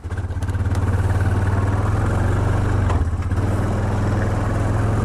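ATV engine coming up right at the start and then running steadily at idle, with an even, pulsing low hum.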